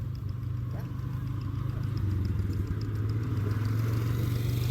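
Tractor engine running steadily with a low drone, growing louder about two seconds in as it draws closer.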